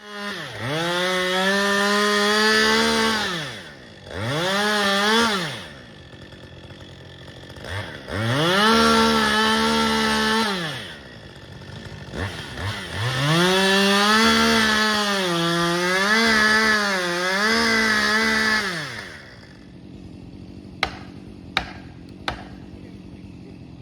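Chainsaw revved to full speed four times, the pitch sweeping up, holding with some wavering, then falling back, as in cutting into a tree. After the last burst it drops to a low idle, and three sharp knocks come near the end.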